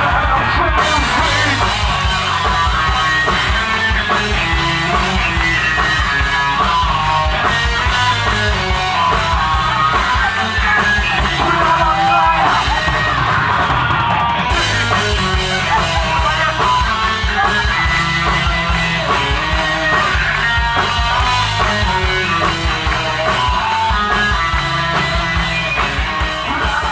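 Live alternative rock band playing at full volume: electric guitar over bass and drums with a steady beat.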